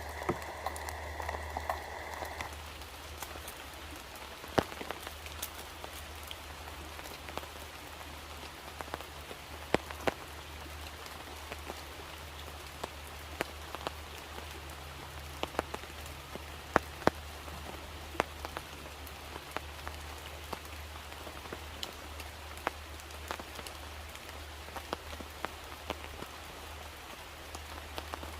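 Steady rain falling, with frequent sharp drops striking close by throughout. A steadier mid-pitched hiss in the first couple of seconds stops abruptly.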